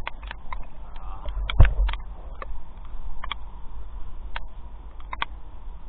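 Irregular sharp taps of raindrops, with wind rumbling low on the microphone and one heavier thump about one and a half seconds in.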